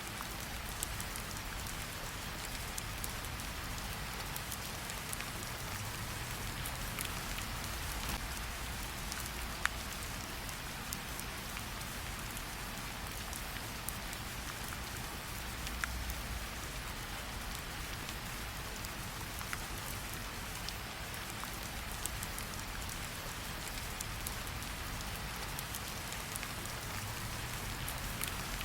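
Steady rain falling, with scattered sharp crackles and pops from a campfire; one louder pop comes about ten seconds in.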